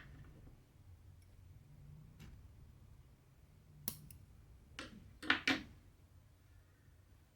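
Hand cross-stitching on Aida fabric: a few short sharp clicks and snips from the needle, thread and scissors. The loudest two come close together about five seconds in.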